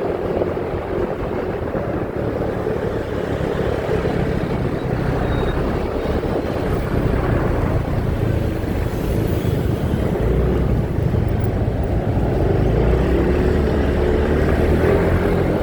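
Motorcycle riding noise: the engine running at a fairly steady pitch under a heavy, steady rumble of road and wind noise.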